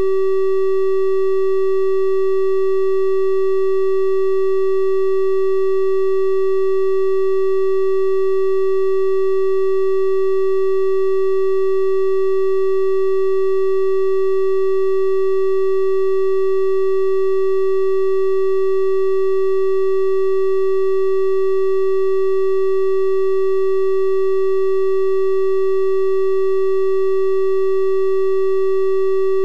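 A steady electronic 384 Hz triangle-wave test tone, one unchanging pitch with faint higher overtones, held without a break.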